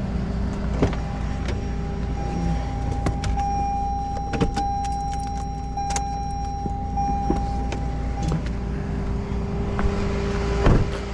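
Rollback tow truck running with a steady engine rumble and a higher steady whine from about a second in until about eight seconds. A few knocks and clunks are scattered through, the loudest near the end.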